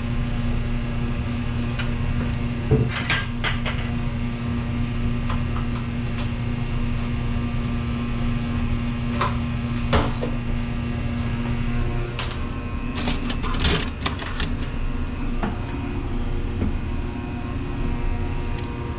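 Steady low electrical hum that shifts about twelve seconds in, with scattered clicks and knocks from hands and tools working on a commercial dishwasher's control box and motor wiring.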